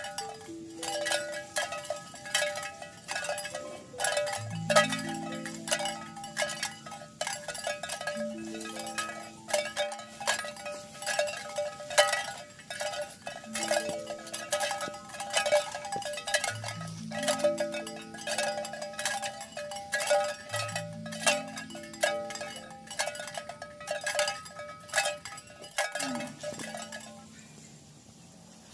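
Cowbells on a moving herd of cattle clanking and ringing continuously in quick, irregular strikes, fading near the end.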